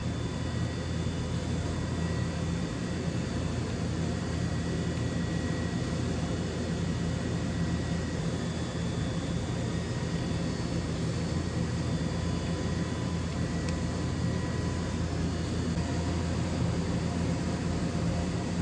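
DVF 5000 five-axis CNC machining centre running steadily: a constant low hum with faint steady high-pitched whining tones.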